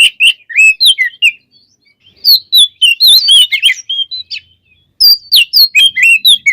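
Oriental magpie-robin (kacer) singing loudly: rapid runs of varied whistles, chirps and rising and falling glides, in three phrases with short pauses between them.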